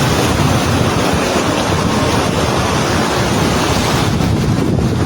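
Loud, steady rushing of water, a dense even roar with no distinct strokes or tones, the sound of heavy rain and running rainwater.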